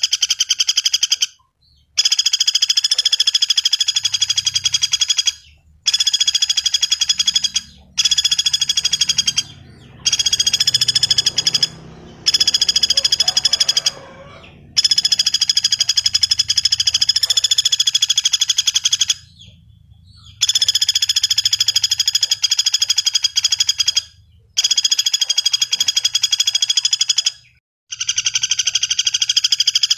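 Javan flameback woodpecker (pelatuk bawang) calling: rapid, even rattling trills, each lasting one and a half to four seconds, repeated about ten times with short gaps between them.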